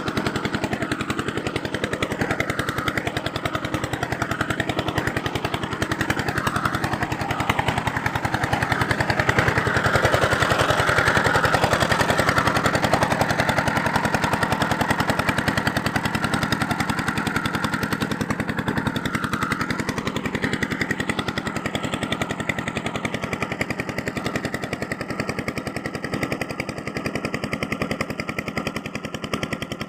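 Power tool running against rusty metal, a fast steady rattle with a wavering pitch, louder for several seconds around the middle.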